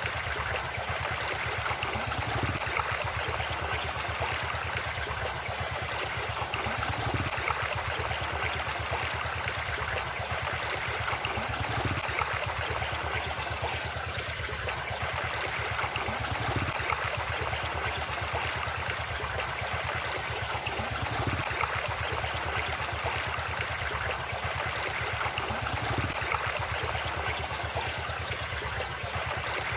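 River water flowing steadily, a continuous rush and gurgle with no breaks.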